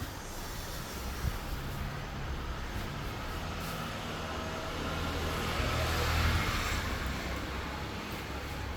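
Motor vehicle engine running steadily, with a vehicle passing that swells and is loudest about six seconds in.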